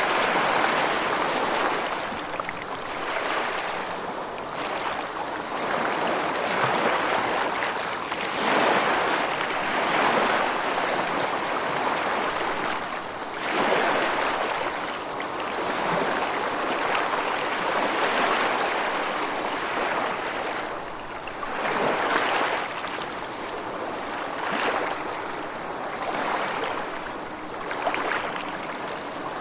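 Rushing water with a steady hiss that swells and eases every few seconds.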